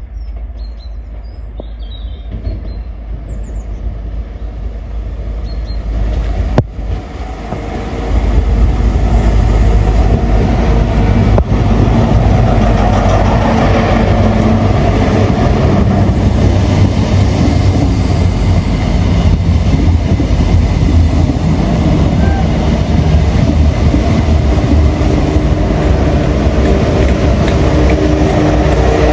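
GWR Class 43 HST diesel power car approaching and running along the platform, growing louder over the first eight seconds, then a loud steady rumble of engine and wheels as the power car and carriages pass close by. A single sharp click comes about six and a half seconds in, and birds chirp faintly at first.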